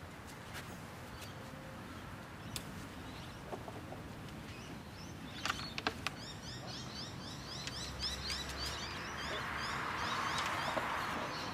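A small bird calling a quick series of short rising chirps, about two or three a second, starting about six seconds in. A few sharp clicks come just before the chirps, and a broad rush of noise swells near the end.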